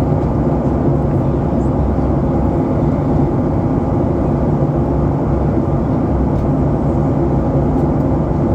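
Steady drone of an airliner cabin in flight: engine and airflow noise, heavy in the low end and unchanging.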